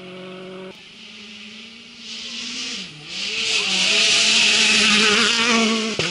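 World Rally Car's turbocharged four-cylinder engine approaching and passing at speed, revving hard with its pitch wavering through the gear changes; loudest over the last few seconds, then cut off abruptly near the end.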